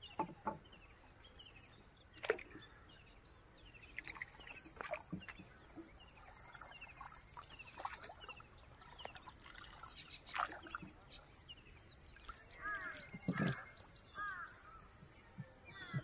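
Birds chirping and calling over a low outdoor background, with a run of louder repeated calls near the end. A few sharp knocks are scattered through, the loudest about two seconds in and again near the end.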